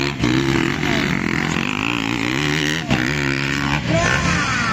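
Motocross bikes' engines revving, their pitch rising and falling over and over as the throttle opens and closes, with a brief drop about three seconds in.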